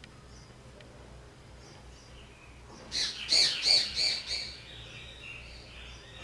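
A small bird chirping: faint high chirps, then a run of about five loud, sharp chirps about three seconds in, trailing off into softer calls.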